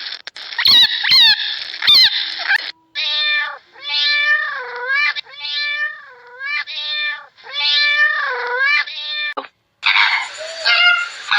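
A cat meowing about six times in a row, each meow drawn out and bending up and down in pitch. Before the meows come a few sharp clicks and squeaks, and near the end the audio cuts to a different, noisier animal sound.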